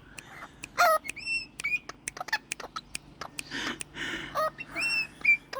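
Australian king parrot giving short scattered chirps and whistled calls, several rising in pitch and then holding, with sharp clicks between them and a brief soft rustle about three and a half seconds in.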